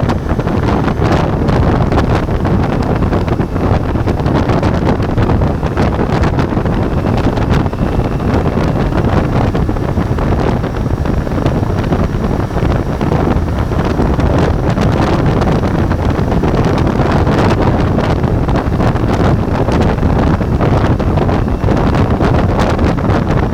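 Steady wind buffeting on the microphone of a motorcycle-mounted action camera while riding, over the running of a Ducati Multistrada V4's V4 engine and road noise.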